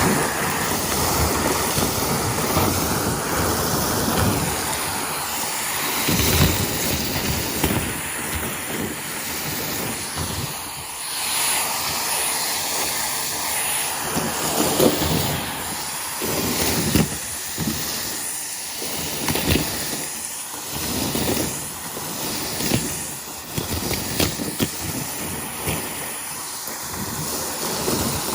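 Numatic Henry cylinder vacuum cleaner running, a steady suction hiss and motor whine, with irregular knocks and rattles of debris and the nozzle throughout.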